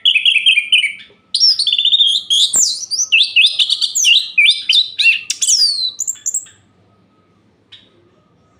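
Orange-headed thrush (anis merah) singing a fast, varied song of rapid high trills and sharp falling whistles. The song stops about six and a half seconds in, and a few faint short chirps follow.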